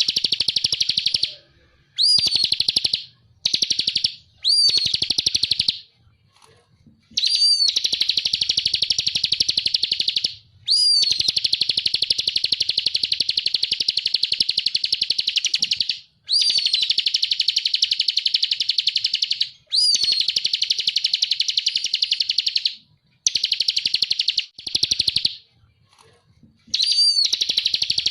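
Ciblek (prinia) singing in rapid 'ngebren' bursts: a fast, buzzy rattling trill in repeated bouts of about one to five seconds. Each bout opens with a short up-and-down whistled note, and the bouts are separated by short pauses.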